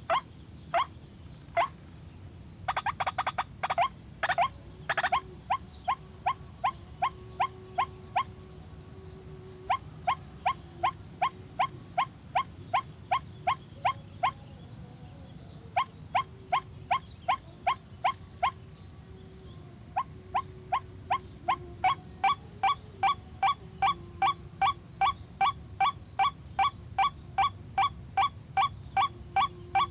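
White-breasted waterhen (ruak-ruak) calling: a long series of short, sharp notes about two a second, with a rapid burst of calls a few seconds in and a couple of brief pauses.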